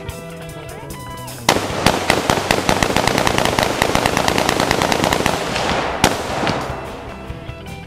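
Background music with a loud, rapid string of sharp cracks that starts suddenly about a second and a half in and crackles on for about five seconds, with a last single crack near the end.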